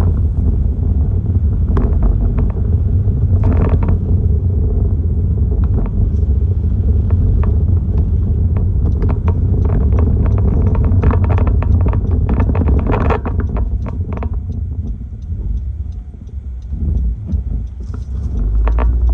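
Hurricane-force wind buffeting the microphone as a loud, deep rumble, with many sharp ticks and rattles through it. It eases for a moment about three-quarters of the way through, then gusts back up.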